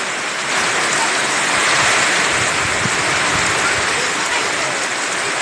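Heavy rain pouring down steadily, a dense hiss of falling water that swells slightly about half a second in.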